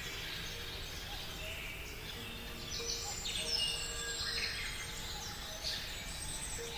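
Birds chirping and twittering, busiest in the middle of the stretch, over faint held notes of soft background music.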